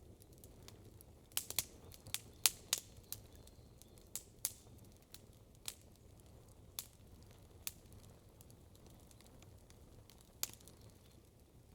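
Campfire crackling: burning wood giving off irregular sharp pops and snaps, a quick run of several loud ones in the first few seconds, then single pops every second or so, over faint steady background noise.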